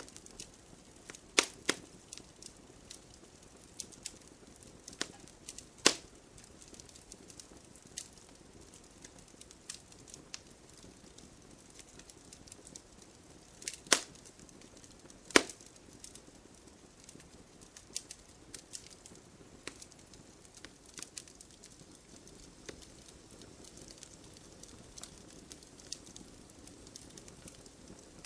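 Wood fire crackling in a fireplace: irregular snaps and pops over a soft hiss, with a few louder pops standing out, two of them about a second and a half apart past the middle.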